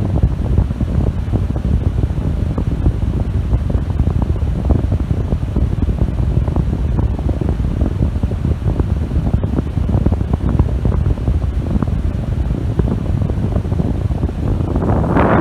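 Strong gusting air buffeting the microphone: a loud, steady rushing rumble of wind noise.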